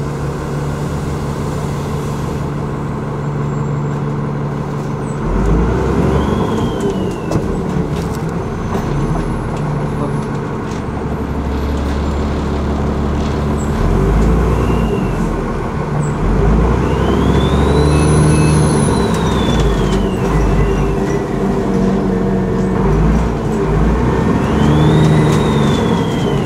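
Alexander Dennis ALX400 double-decker bus's diesel engine pulling away and easing off, with its turbocharger whistle rising and falling about four times, the longest and highest in the middle.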